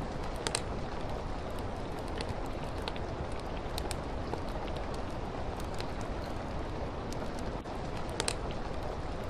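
Steady rain hiss with a wood fire crackling over it: scattered sharp pops, two close together just after the start and two more near the end.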